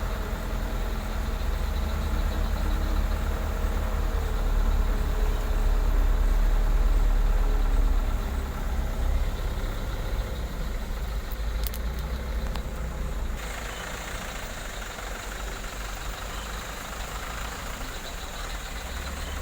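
A vehicle engine running at low speed with a deep, steady rumble. It is louder for the first several seconds and drops to a lower level about two-thirds of the way through.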